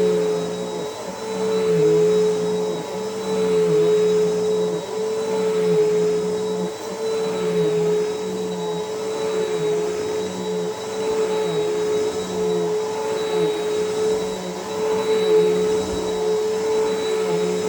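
Bissell PowerForce Helix upright vacuum running on carpet, a steady motor whine whose pitch and loudness dip slightly about every two seconds as it is pushed back and forth.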